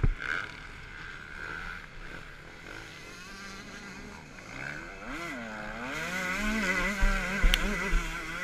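Motocross motorcycle engine heard from the rider's own bike, its pitch dropping and climbing again about five seconds in, then held higher. Wind and track noise hiss throughout, and several heavy low knocks from the bike over bumps come near the end.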